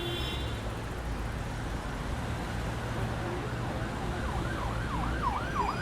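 Siren yelping, its pitch rising and falling rapidly about three times a second from about four seconds in, over a steady low rumbling noise.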